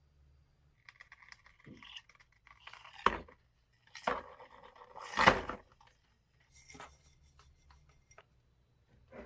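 Metal parts clinking and scraping as they are handled, with two louder knocks about three and five seconds in.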